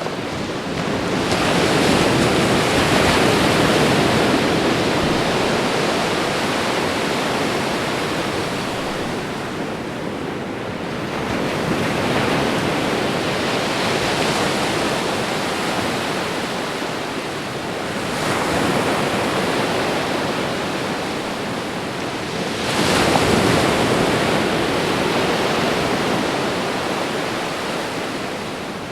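Ocean waves breaking on a shore in a continuous rush of surf, swelling and easing every several seconds as each wave comes in.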